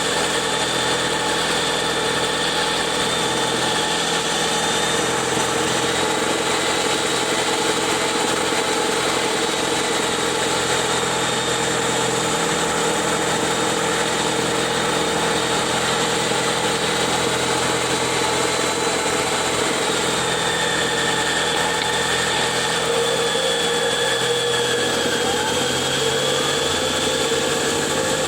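2021 Ford Kuga PHEV's HF45 e-CVT transmission, heard close up on the gearbox casing, running with a steady rotational whine: a high tone that wavers a little in pitch over several lower steady tones, with a mid tone growing stronger past the middle. The owner says this noise began after a flywheel change and suspects it comes from motor generator 1 inside the e-CVT.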